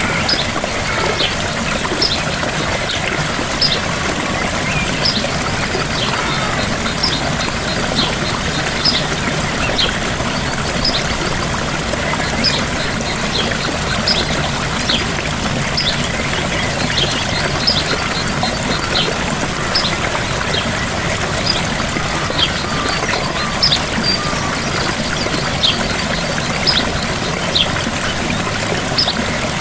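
Gentle waterfall: a steady rush of falling water, with short high-pitched chirps or ticks repeating about once a second over it.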